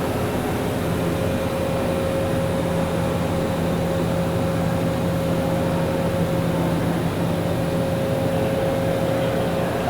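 Steady factory-floor machinery hum with a constant mid-pitched tone over a low drone, unchanging throughout.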